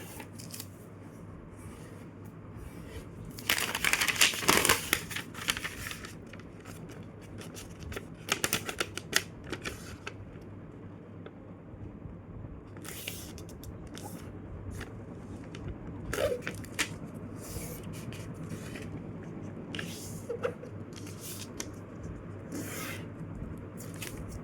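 A square sheet of paper being folded and creased by hand along its diagonals: bursts of crinkling and scraping, loudest a few seconds in, with softer rustles and rubs through the rest.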